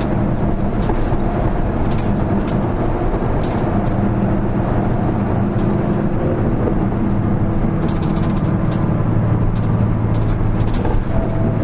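Diesel engine of a Hino KL-HR1JNEE low-floor city bus heard from inside the cabin while under way. The engine note shifts about two-thirds of the way through, and sharp clicking rattles from the interior are scattered throughout.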